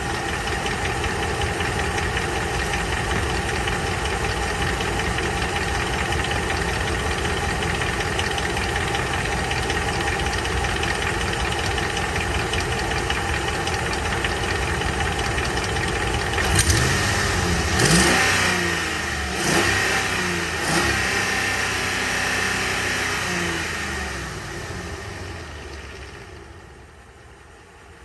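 Ram 1500 pickup engine idling with a steady knock that the owner suspects may be rod knock. It is blipped four times in quick succession about two-thirds of the way in, then its sound fades near the end.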